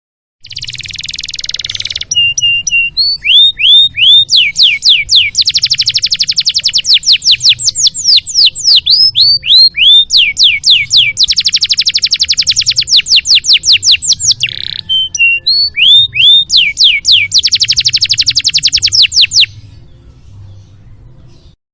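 Domestic canary singing a long, varied song: a buzzy opening note, then very fast rolling trills alternating with runs of repeated downward-sweeping whistled notes, stopping near the end.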